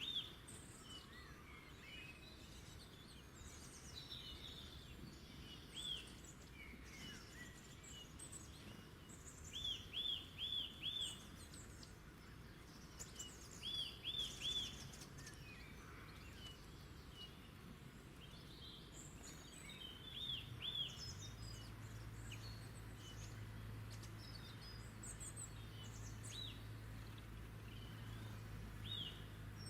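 Several wild birds singing and chirping. One repeats a short phrase of three to five quick arched notes several times, among scattered higher chirps. About two-thirds of the way in, a low steady hum joins underneath.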